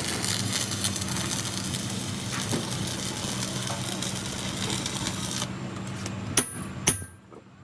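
Workshop machine running with a steady hum under a clattering hiss, dying away about five and a half seconds in, followed by two sharp metallic clicks about half a second apart.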